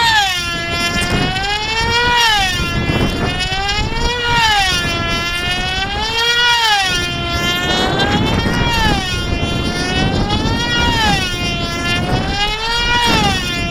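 Small model airplane engine on a control-line plane circling at full speed, a high buzzing whine that rises and falls in pitch about every two seconds as the plane comes toward and goes away on each lap.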